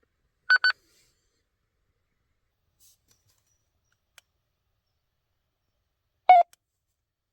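Two quick high-pitched beeps in a row about half a second in, then one lower chirp near the end, over otherwise dead silence.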